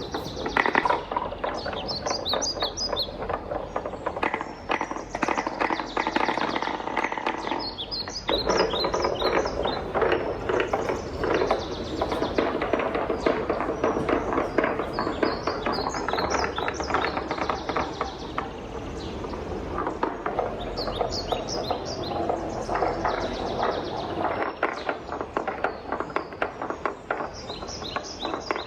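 Wooden balls rolling and clattering down a wooden marble-run track: a continuous dense rattle of small wooden knocks, with clusters of sharper high clicks every few seconds.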